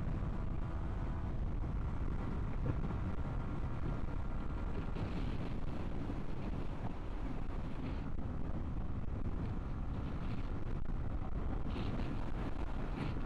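Motorcycle riding at road speed: steady wind noise buffeting a helmet-mounted microphone, with a Yamaha MT-125's single-cylinder engine running steadily underneath.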